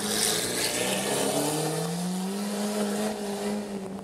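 Lamborghini Aventador's V12 engine pulling away, loudest in a burst of exhaust at the start. The engine note climbs over about a second and a half, holds steady, then fades near the end as the car moves off.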